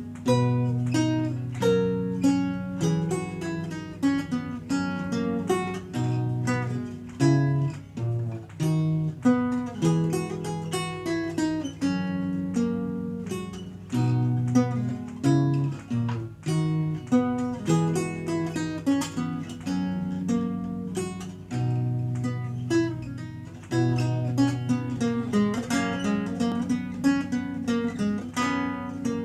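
Renaissance lute played solo: a continuous flow of plucked notes, a melody picked over sustained bass notes.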